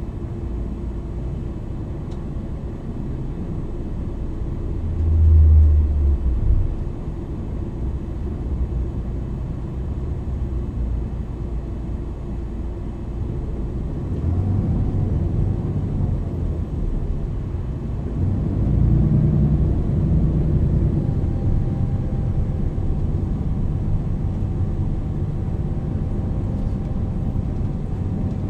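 MAN NL 323 city bus's diesel engine and ZF Ecolife automatic gearbox, running at low speed with a steady rumble and a heavy low thump about five seconds in. From about halfway the engine pulls harder, its pitch rising and falling through gear changes, and a steady thin whine sounds through the last third.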